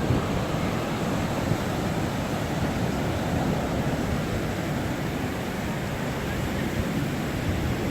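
Steady wash of ocean surf and wind, with a low rumble throughout.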